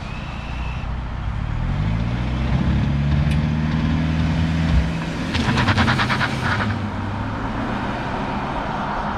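Mercedes CLS 300d's 2.0-litre turbo diesel accelerating past, its pitch rising for a few seconds and then dropping away about halfway through. A short burst of rapid crackling comes as it goes by, followed by steady tyre and road noise.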